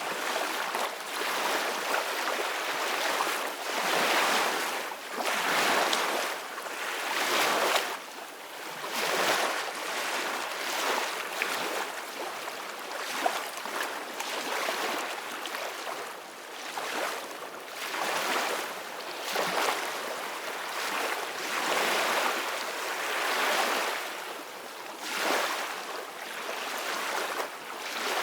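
Ocean waves breaking and washing up a beach, the surf swelling and fading every two to three seconds, with no low rumble.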